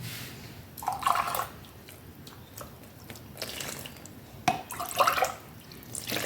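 Water poured in short splashes into a bowl of dry dough ingredients, added a little at a time for mixing a yeast dough.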